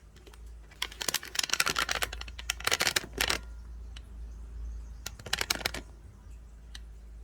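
Typing on a computer keyboard: two runs of rapid key clicks, a longer one about a second in and a shorter one a couple of seconds later, over a steady low hum.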